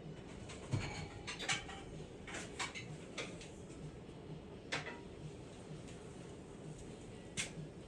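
Scattered light clicks and knocks of objects being picked up and handled, about a dozen irregular taps, over a faint steady low hum.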